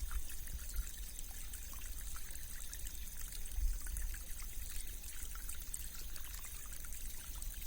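Stream water flowing and trickling over rocks, a steady rippling with small bubbling sounds.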